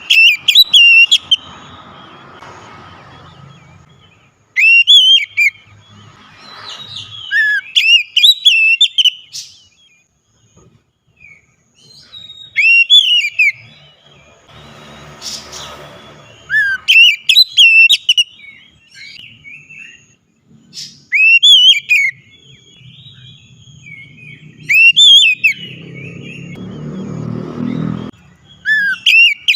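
Oriental magpie-robin (kacer) singing loud, quick whistled phrases of rising and falling notes, in bursts every three to four seconds with short pauses between.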